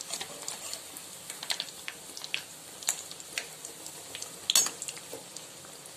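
Egg-coated bread rounds sizzling as they shallow-fry in a little oil in a pan, with a metal slotted spatula clicking and scraping against the pan now and then. The loudest clatter comes about four and a half seconds in.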